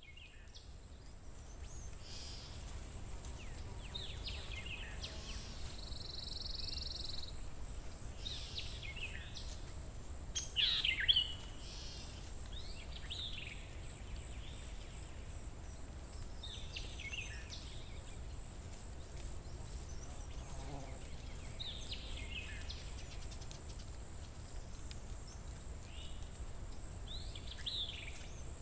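Birds giving short, sharp, falling chirps every few seconds, the loudest about ten seconds in, over steady outdoor background noise with a low rumble.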